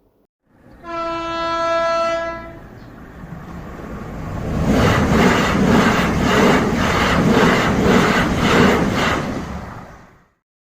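A train horn sounds one steady note for about two seconds. Then a train runs past, its wheels clattering over rail joints about twice a second, before it fades out.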